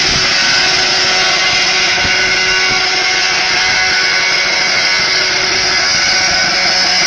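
Car engine held at high revs during a burnout, loud and steady, with a dense hiss over it.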